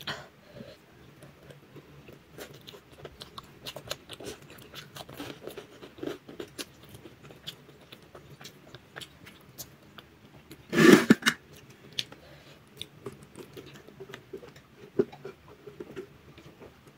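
Close-up mouth sounds of a person eating spicy instant noodles by hand: chewing and biting with many small wet clicks. A single short, much louder noise comes about eleven seconds in.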